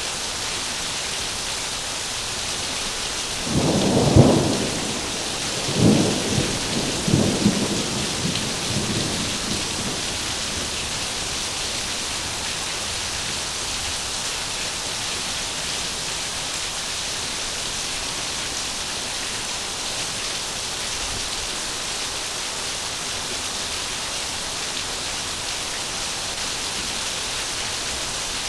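Heavy rain falling steadily, with a thunderclap about four seconds in that rolls on in two more rumbles and fades out a few seconds later.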